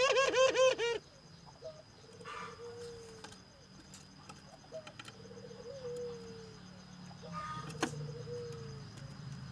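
A puter dove cooing: three soft, pulsed coos that fall slightly at the end, spaced a few seconds apart. A much louder, harsher bird call sounds in the first second.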